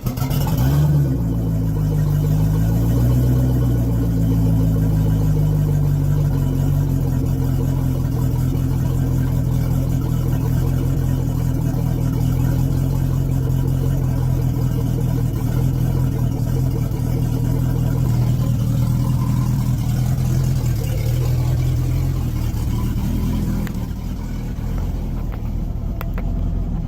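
Chris-Craft boat engine starting, its speed swinging briefly before it settles into a steady idle. It is being run on a garden-hose flush attachment while it warms up to operating temperature.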